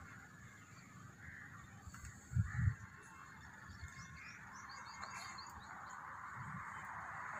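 Quiet outdoor ambience with small birds chirping, including a quick run of about half a dozen high chirps about halfway through. A couple of low thumps, a little after two seconds in, are the loudest sound.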